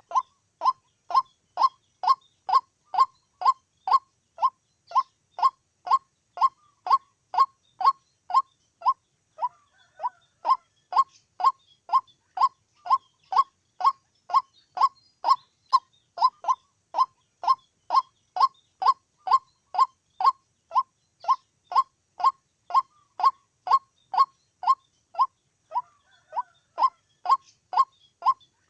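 White-breasted waterhen calling, one short note repeated evenly about two and a half times a second, with a brief break about ten seconds in.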